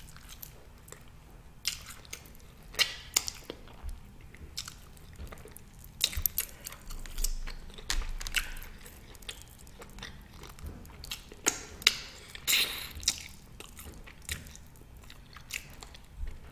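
A person chewing oxtail meat and fat, with irregular mouth clicks and smacks throughout.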